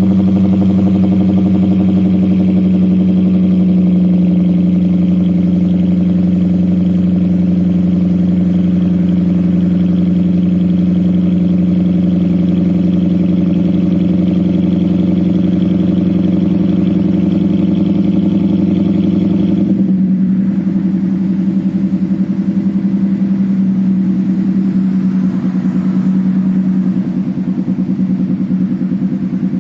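Lexus IS-F's 5.0-litre V8 running straight-piped, with no catalytic converters and no muffler, idling steadily just after being started. About two-thirds of the way through the note changes and becomes lighter, with less of its deep rumble and upper rasp.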